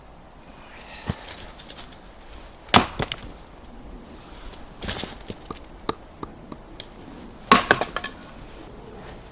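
Wood cracking and splintering in a series of sharp snaps and knocks, loudest about three seconds in and again near the end, as when dry sticks are broken or chopped for a fire.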